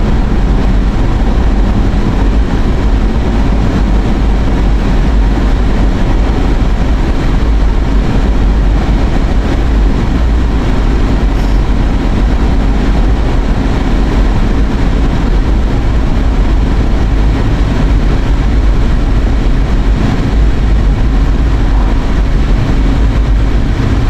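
Steady road and engine noise inside the cabin of a moving car, loud and even, with most of its weight low down.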